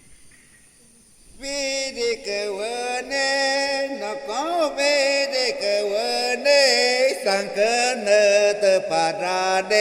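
A quiet second and a half, then a voice begins chanting an icaro, a shamanic healing song, in long held notes that bend up and down in pitch.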